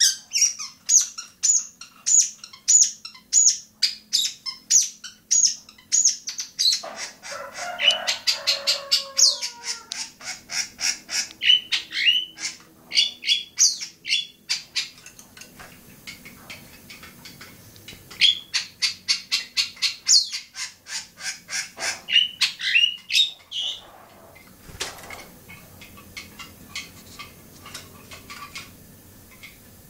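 Long-tailed shrike (cendet) singing: rapid runs of sharp, high, harsh chirps, several a second, broken by short pauses, with a lower, rougher call mixed in about seven seconds in. The calls thin out and grow quieter after about 24 seconds.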